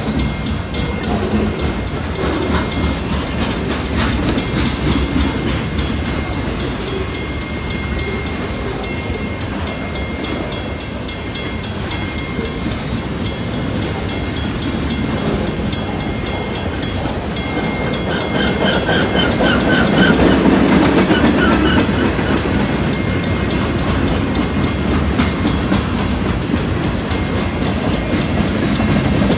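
Freight cars of a long Pan Am Railways train rolling past: a steady rumble with the clatter of wheels over the rails, swelling louder about two-thirds of the way through.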